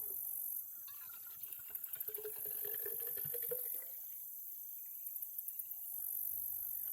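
Insects buzzing high and shrill in stretches of a second or two that start and stop, with quick pulsing bursts between them.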